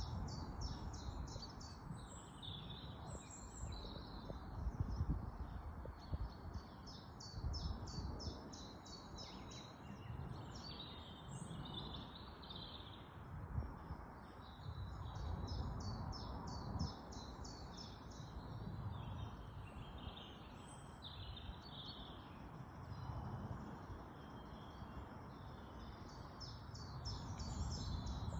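Small birds chirping in quick runs of high notes, in several spells, over a low, uneven rumble.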